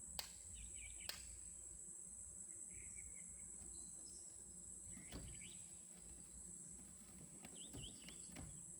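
Steady high-pitched drone of crickets or other insects with short bird chirps, broken near the start by two sharp clicks about a second apart and a softer click around five seconds in.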